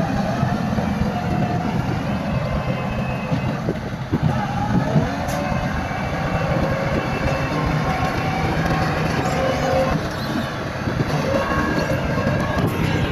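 Crawler bulldozer working: diesel engine running steadily under load with the continuous clanking and rattle of its steel tracks, and a couple of louder knocks about four to five seconds in.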